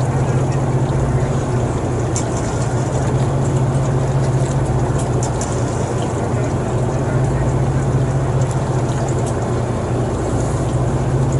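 A steady, loud low engine drone with an even hiss over it and a few faint high ticks.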